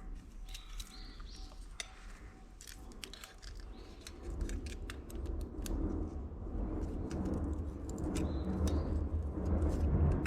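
Light metallic clicks and clinks, as of tools being handled, then a low rumble that builds from about four seconds in and grows louder.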